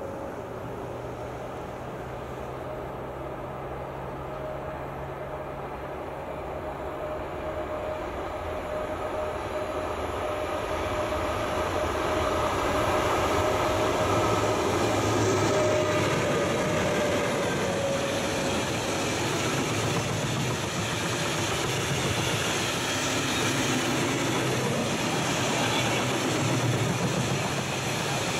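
Freight train hauled by an Sr1 electric locomotive approaching and rolling past, its wagons loaded with steel coils. The sound of wheels on rails grows louder over the first half and then holds steady as the wagons pass. A steady whine drops slightly in pitch around the middle.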